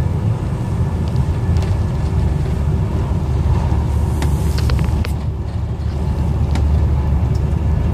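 Passenger train running at speed, heard from inside the carriage: a steady low rumble with scattered light clicks and rattles, and a brief rush of hiss about four seconds in.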